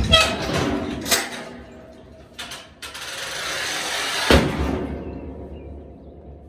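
Metal roll-up door moving: clanks, then a rattling run that ends in a loud bang about four seconds in as the door hits its stop.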